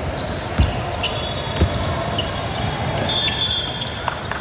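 A basketball bouncing on a court: two heavy bounces about a second apart, over the steady noise of a gym hall. About three seconds in there is a brief, high, shrill tone.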